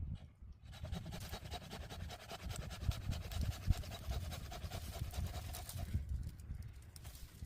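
Hand saw rasping through material in quick back-and-forth strokes. It starts about half a second in and stops about six seconds in.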